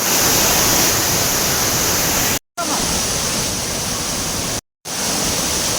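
Waterfall pouring: a loud, even rush of falling water. It cuts to dead silence twice for a moment, about two and a half and just under five seconds in.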